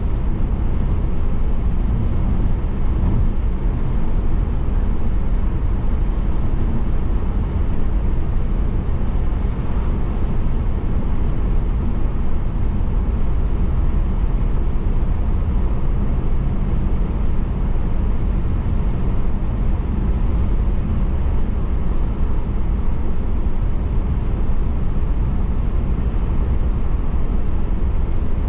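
Steady, low road noise of a car driving: tyre and engine rumble that runs on evenly.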